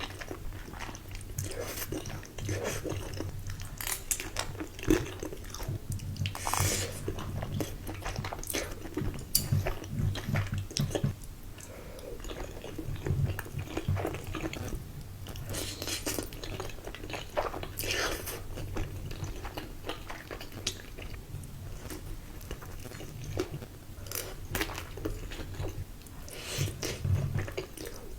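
Close-miked eating of cheesy food: biting and chewing, with irregular crunchy bites scattered throughout.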